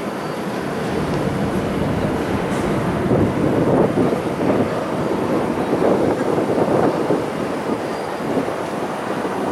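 Jet airliner engine noise, a broad rumble that swells a few seconds in and eases off near the end.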